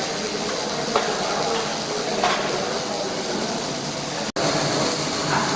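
Steady hissing noise of a welding workshop, cutting out for an instant about four seconds in.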